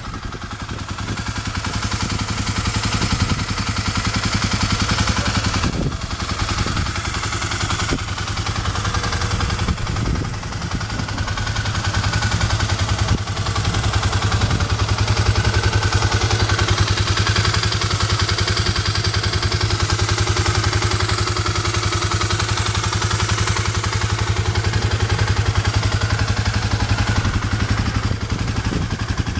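2009 Kawasaki KLX250S's single-cylinder four-stroke engine running at a steady idle.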